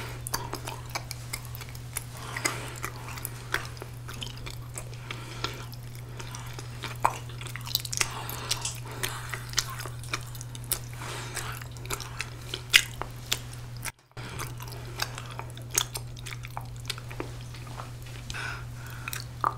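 Close-up chewing of a chewy ramie-leaf rice cake (mosi-tteok): soft, wet mouth sounds with many small clicks and smacks. A steady low hum runs beneath, and the sound cuts out for a moment about 14 seconds in.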